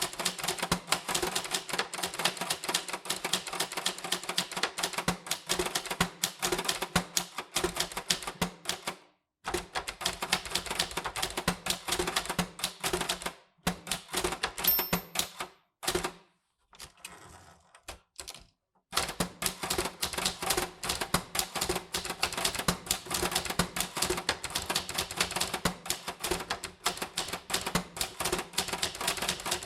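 Typewriter keys struck in quick, steady runs, the typebars clacking several times a second, with a few short pauses and one longer lull in the middle before the typing picks up again.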